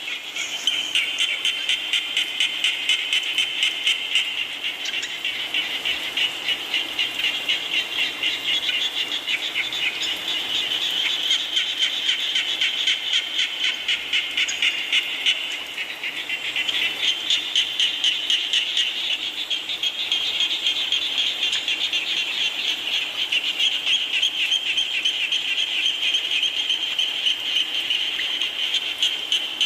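Chorus of many frogs calling at once, a dense pulsing din of calls several times a second.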